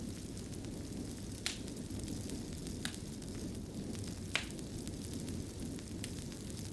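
Wood fire crackling in a fireplace: a steady low rumble with scattered small crackles and three sharper pops, the loudest about four seconds in.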